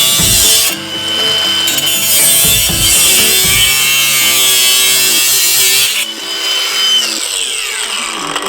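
Ryobi 18V brushless angle grinder with a cut-off wheel cutting through metal: a high motor whine under loud, harsh grinding noise. Near the end the cut finishes and the whine falls as the wheel spins down.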